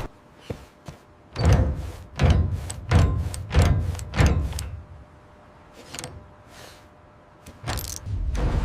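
A run of five heavy thuds about two-thirds of a second apart, then a couple of faint knocks and one more thud near the end.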